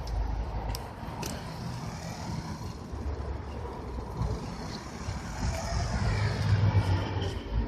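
A vehicle engine running with a low, uneven rumble that grows louder about six seconds in, with a couple of sharp clicks about a second in.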